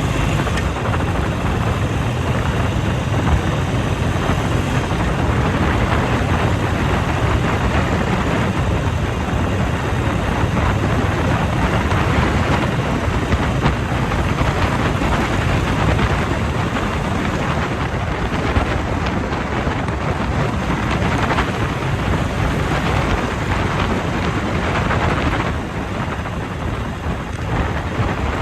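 Wind rushing over the microphone of a moving motorcycle, a steady noise heaviest in the low rumble, easing a little near the end.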